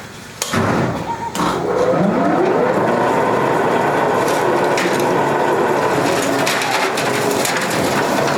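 A machine motor starting up, its whine rising in pitch for about a second before settling into a steady run, under continuous clattering workshop machinery noise with scattered clicks.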